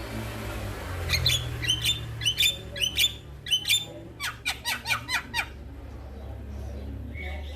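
Male Javan myna (jalak kebo) singing: a run of short, sharp call notes, quickening into a rapid series of short falling notes about two thirds of the way through, then a lull near the end. A steady low hum runs underneath.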